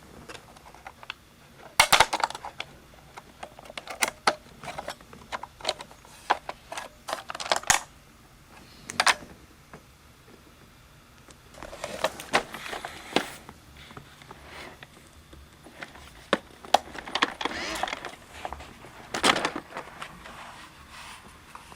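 Roomba robot vacuum clattering and knocking as it works: irregular sharp clicks and short rattling bursts, the loudest about two seconds in, around twelve seconds and near nineteen seconds.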